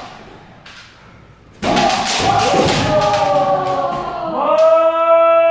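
Kendo kiai: loud shouting voices that start suddenly about a second and a half in and end in one long held yell, over a few thuds of strikes or stamping feet.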